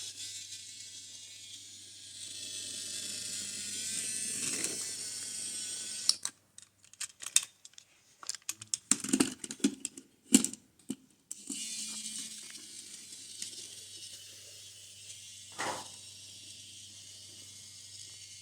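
Small battery-powered toy train motor whirring steadily through its gears on a wooden railway. From about six to eleven seconds in, the whir gives way to a run of sharp clicks and clacks, then the whirring picks up again.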